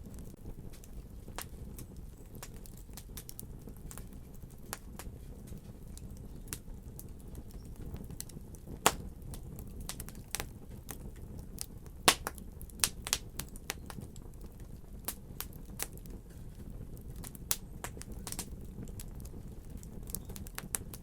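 A wood fire burning with a low steady rumble and irregular sharp crackles and pops, a few of them much louder than the rest.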